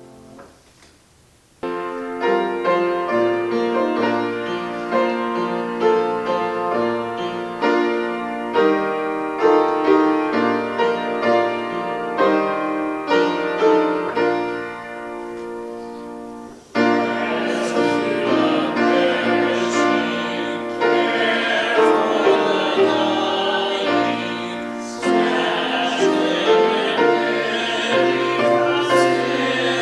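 Piano playing a hymn-like passage of chords; after a short break about halfway through, singing with vibrato comes in over the piano accompaniment.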